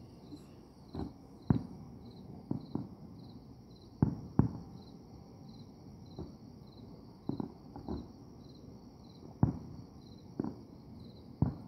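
Distant aerial fireworks going off in about a dozen sharp, irregularly spaced bangs, with a steady, evenly pulsing chirping of crickets underneath.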